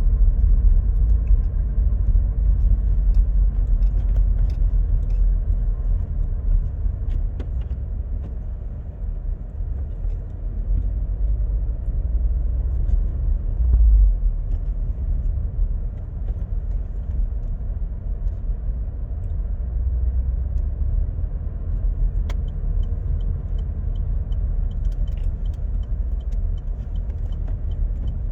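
Car driving at road speed with a steady low rumble and drone: the noise reported as a problem from an M32 gearbox between 50 and 140 km/h. Light ticks and rattles come in near the end.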